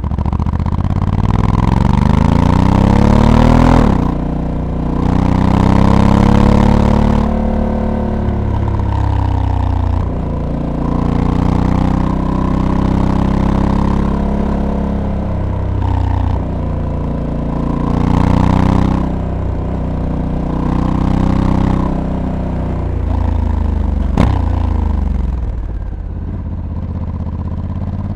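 Honda Africa Twin DCT's 1084 cc parallel-twin engine under way, pulling up through the revs and dropping sharply as the dual-clutch gearbox shifts, then rising and falling repeatedly with the throttle. A single sharp click comes near the end.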